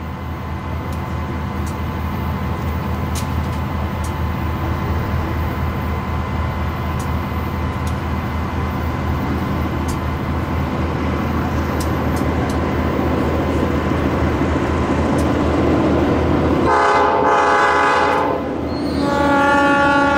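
A passing train: a steady diesel drone that grows louder, with scattered clicks from the wheels on the rails. Near the end a multi-note train air horn sounds twice, a blast of about a second and a half, then a second blast that is still sounding at the end.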